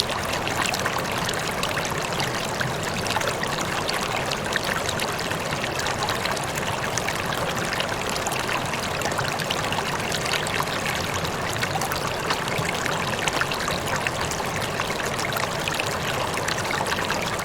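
Water rippling and trickling steadily, like a small stream, with fine splashy detail throughout.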